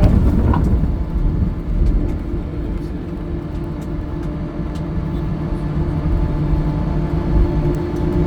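Cabin noise inside an Airbus A320 on the ground after landing: a steady low rumble with a constant hum from the idling jet engines and aircraft systems.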